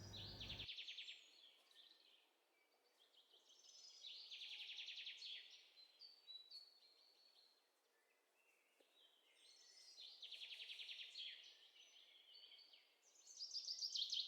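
Small birds chirping and trilling in quick repeated notes, in faint bouts every few seconds.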